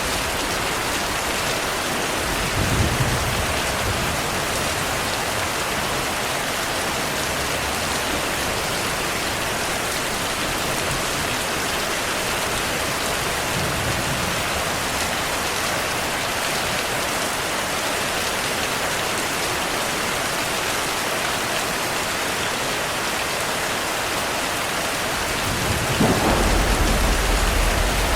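Steady heavy rain hissing, with rolls of thunder: a short low rumble about three seconds in, and a longer, louder one near the end.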